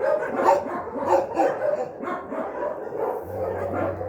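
A dog barking over and over in a quick string of short, high yapping barks, excited over its food rather than eating it.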